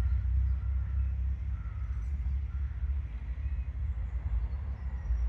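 Cars driving slowly past, a low engine rumble that rises and falls; a bird chirps faintly a few times.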